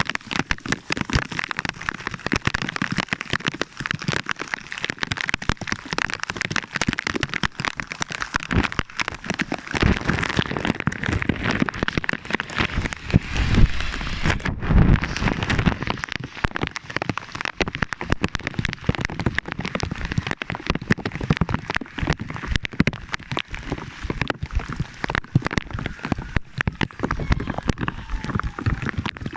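Heavy rain during a thunderstorm, a dense patter of drops striking close by, with a low rumble joining from about ten seconds in.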